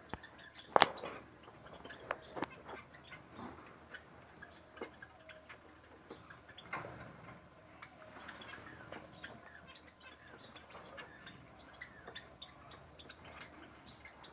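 Aviary birds chirping and calling in short notes, among many scattered sharp ticks and clicks; one loud click comes just under a second in.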